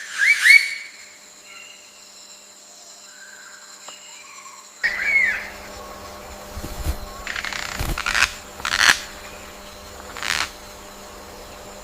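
Bird calls, short chirps curving in pitch, loudest right at the start and again about five seconds in, over a steady high insect buzz. In the second half there are several short rustling knocks.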